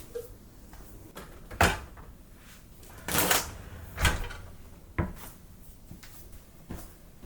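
Household handling noises: a sharp knock, a short scraping slide, then a few more knocks and a click, like containers set down and a drawer or bin being moved while a refrigerator is organized.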